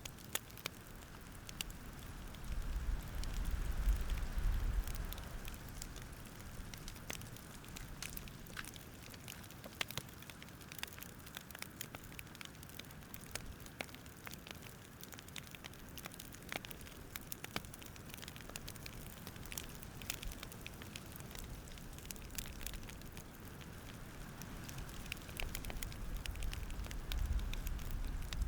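Campfire crackling, with irregular sharp pops and snaps over a soft steady hiss. A low rumble swells briefly twice, near the start and near the end.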